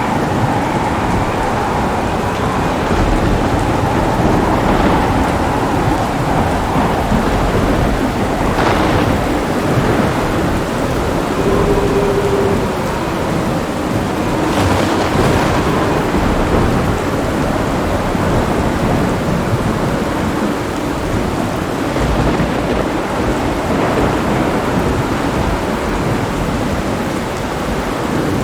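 Heavy rain falling steadily with deep rolling thunder rumbling through, and a couple of sharper crackles of thunder partway through.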